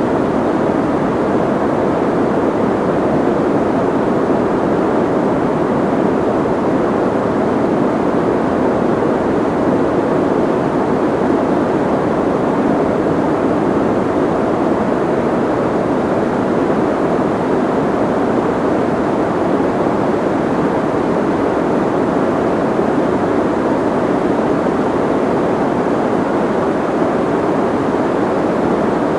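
Soft white noise: a steady, even rushing hiss, muffled, with little treble, unchanging throughout.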